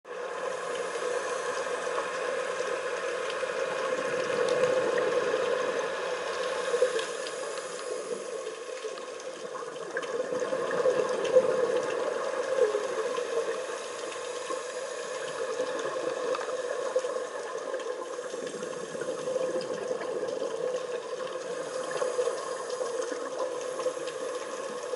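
Muffled underwater sound picked up on a dive camera: steady water noise with a hum, swelling in louder surges now and then.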